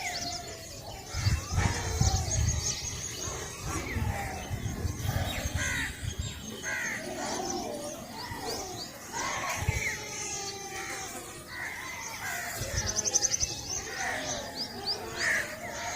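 Many birds chirping and calling together in a dawn chorus of overlapping short whistled notes, with a rapid high trill about thirteen seconds in. Low rumbling comes and goes under the birds in the first few seconds.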